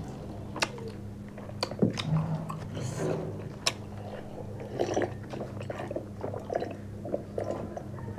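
Close-up eating sounds of people eating by hand: chewing and lip smacking, with scattered sharp clicks. A low steady hum runs underneath.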